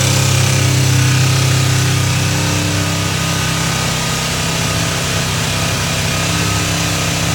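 Kawasaki ZZ-R250's parallel-twin engine running at a steady idle, a little quieter from about two seconds in.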